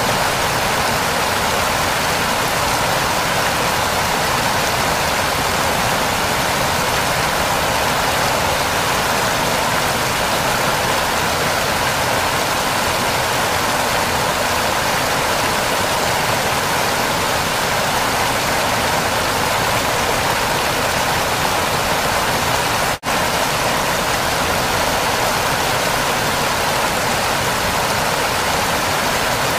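Waterfall: water rushing and splashing steadily, with a brief dropout for an instant about 23 seconds in.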